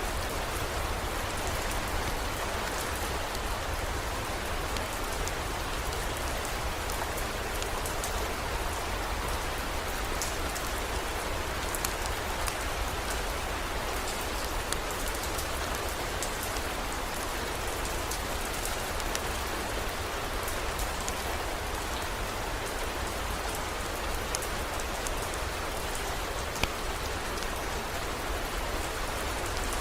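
Heavy rain falling steadily, an even wash of noise with scattered sharp drop ticks and a steady low rumble underneath.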